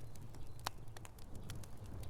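Wood fire crackling in a fireplace: irregular small pops and snaps over a low steady rumble, with one sharper crack a little over half a second in.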